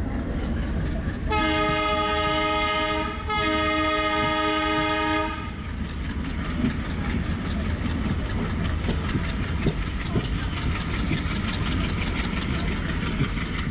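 WDG 3A diesel locomotive's horn sounding two long blasts with a brief break between them, followed by the train rolling past with its wheels clattering rhythmically over the rail joints.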